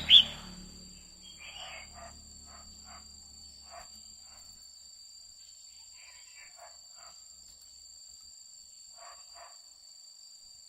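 Female red-whiskered bulbul calling: a loud, sharp, high chirp right at the start, then short, softer chirps in small groups through the rest. A steady high-pitched two-tone drone runs underneath.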